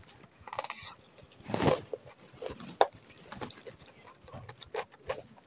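A person chewing broccoli and noodles, with eating noises in irregular bursts, the loudest about a second and a half in, and a few small clicks.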